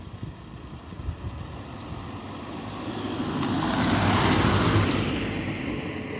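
A vehicle passing by, its tyre and road noise swelling to a peak about four seconds in, then fading.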